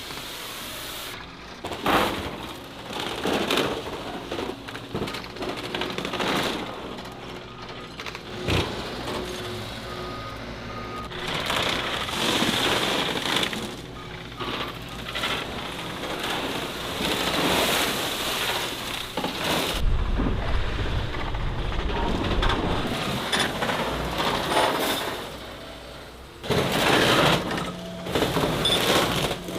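Scrapyard machinery working: clanks and crashes of metal being torn and crushed over running engines, with a deep rumble about two-thirds of the way through.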